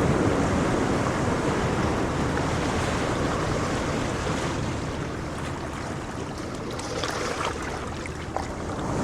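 Ocean waves washing on a shore: a wave's rush fades away, with a faint crackle of fizzing foam near the end before the surf swells again.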